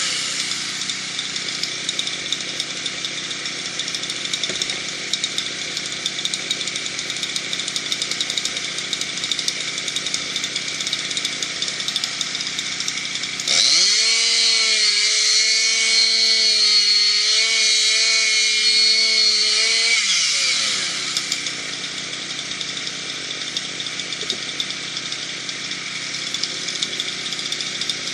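Chainsaw running at a low, steady speed, then revved up about halfway through and held at high speed for about seven seconds before dropping back.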